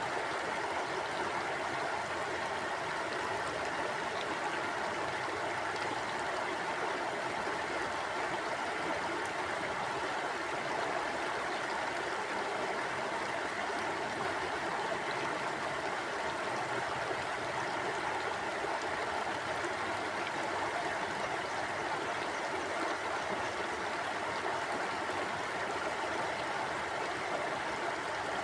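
Flowing river or stream water rushing and gurgling, a steady even sound with no breaks.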